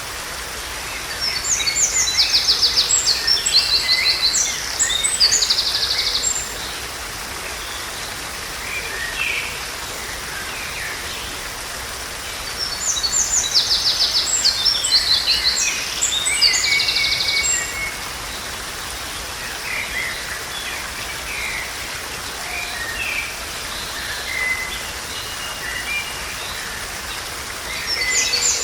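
A songbird sings the same loud, high, trilled song phrase three times, about every twelve seconds, with softer scattered chirps in between, over a steady background hiss.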